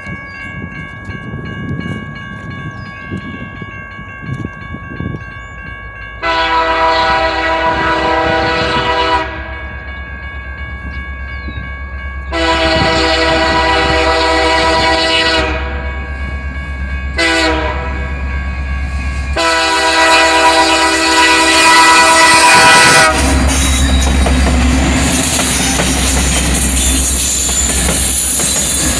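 Locomotive horn sounding the grade-crossing signal as the train approaches: two long blasts, a short one, and a final long one. The locomotive and its cars then rumble through the crossing, with clattering wheels on the rails.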